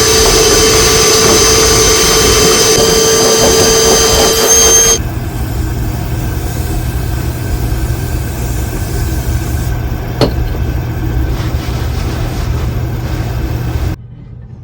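Oil furnace burner running with a loud, steady roar and whine. About five seconds in it drops abruptly to a quieter steady low hum, with one sharp click about ten seconds in.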